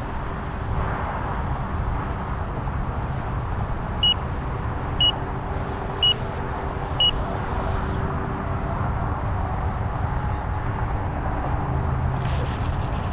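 Freewing T33 Shooting Star RC jet's 80mm electric ducted fan running in flight: a steady rushing sound with a whistle. About four seconds in, four short high beeps sound a second apart.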